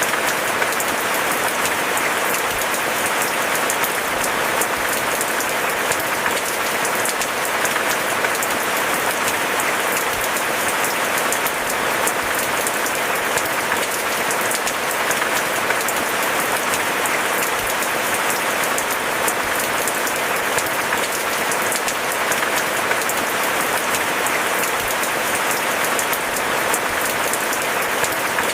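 Steady rain falling, a dense, even patter of many drops with no letup and no thunder.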